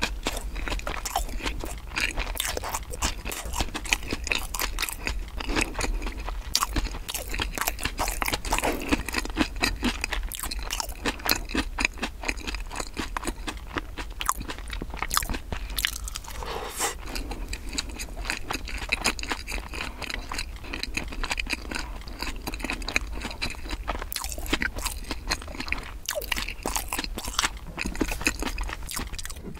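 Close-miked chewing of crispy fried bread: a dense, continuous run of small crunches and chewing sounds over a faint steady low hum.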